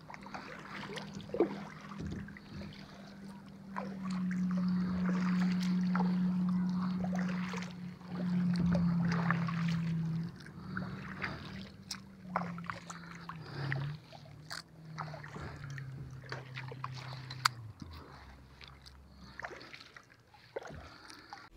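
A motorboat engine drones nearby, louder for several seconds, then drops in pitch and fades away as the boat moves off. Scattered small knocks are heard on top of it.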